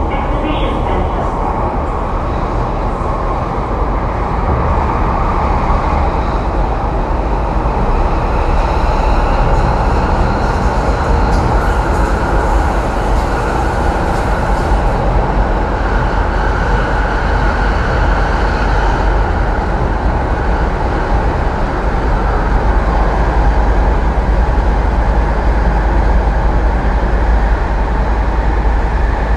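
Interior running noise of an MTR East Rail Line R-train (Hyundai Rotem electric multiple unit) travelling through an underground tunnel: a steady, loud rumble of wheels and running gear that gets a little louder a few seconds in.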